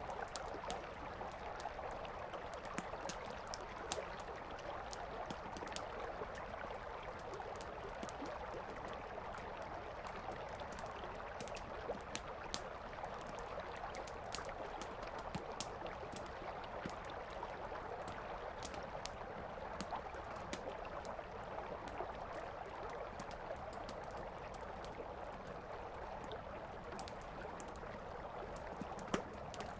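Wood fire crackling with frequent sharp pops and snaps, over the steady rush of a river.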